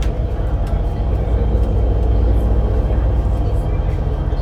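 Volvo B7RLE bus's diesel engine and ZF EcoLife automatic driveline running steadily with a deep rumble.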